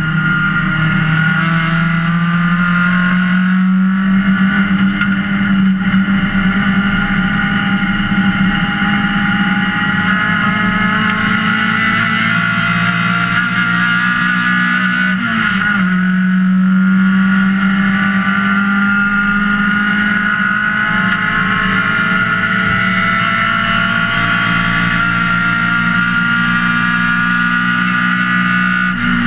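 Race car engine running hard at high revs, heard from inside the stripped cockpit. Its pitch climbs slowly, with a brief dip about halfway through.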